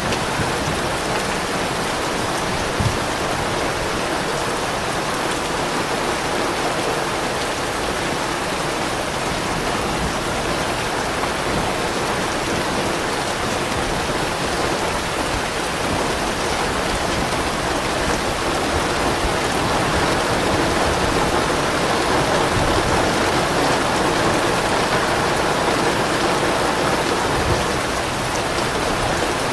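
Rain falling steadily, a steady wash of drops, getting a little heavier about two-thirds of the way through and easing again near the end.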